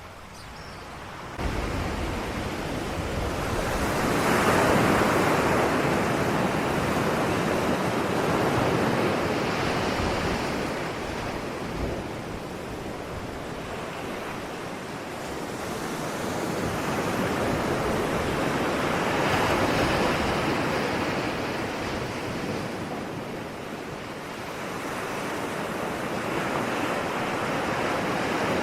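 Ocean surf: waves breaking and washing ashore as a steady hiss of water that swells and eases in slow surges, with two big swells about fifteen seconds apart. It jumps up suddenly about a second in.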